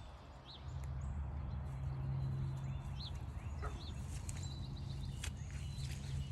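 A steady low drone starts about half a second in and runs on, with a few faint, short, high bird chirps over it.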